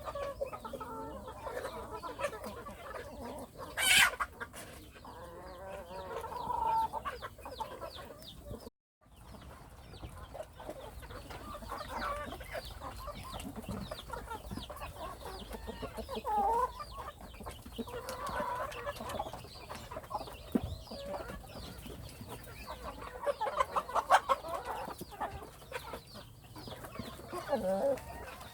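A flock of domestic hens clucking and calling, with many short calls throughout. A loud sharp sound comes about 4 s in, and the sound drops out completely for a moment just before 9 s.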